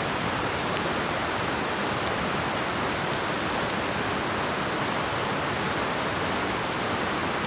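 River flowing steadily, a continuous rushing, with a few faint ticks in the first second or so.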